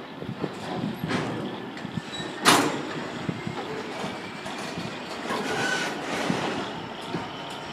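Freight train wagons rolling past with a steady rumble and scattered knocks, and one sharp bang about two and a half seconds in.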